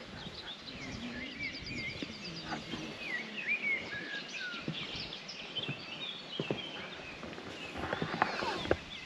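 Songbirds singing outdoors: short whistled notes, sliding calls and a quick trill. A few soft knocks come near the end.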